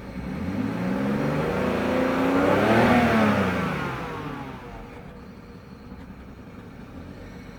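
BMW 528i's N53 straight-six engine revved once from idle: the pitch climbs for about two and a half seconds, peaks about three seconds in, then falls back to a steady idle.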